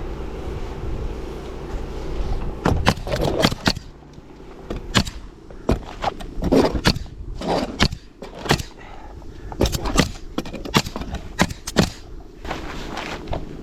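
Roofing work: a string of sharp, irregular knocks and clicks over a low steady rumble, the knocks starting a couple of seconds in.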